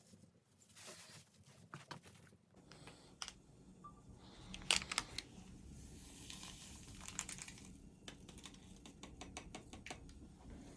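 Close-up handling noises: irregular sharp clicks and crinkling, with one louder click about five seconds in.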